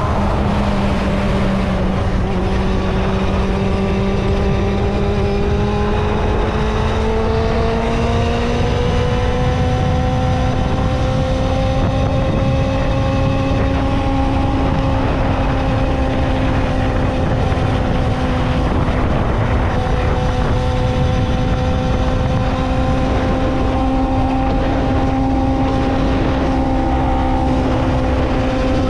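Kawasaki ZXR250 inline-four engine running steadily while riding at speed. Its pitch climbs a little a few seconds in, then holds, over a constant rush of wind and road noise.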